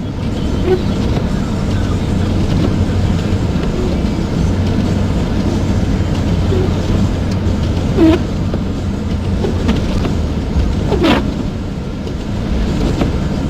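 Steady car-cabin noise while driving: engine and tyre rumble on a snow-covered highway. Two short higher-pitched sounds break through, one about eight seconds in and a falling one near eleven seconds.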